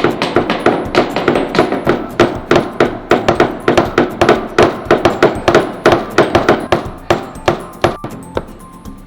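A hammer tapping a wooden perch into a drilled hole in a birdhouse front: a steady run of light, quick blows, about three a second, that eases off near the end. The perch is a tight fit in its hole.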